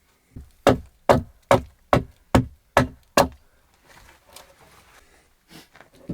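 A tool striking wood: a quick, even series of about eight sharp knocks a little over two a second, then a few fainter knocks near the end.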